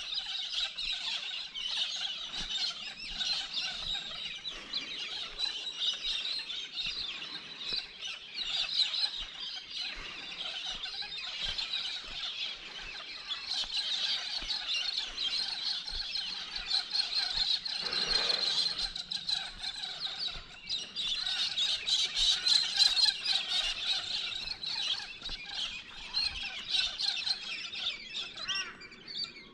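A flock of birds calling and screeching without a break, many shrill calls overlapping.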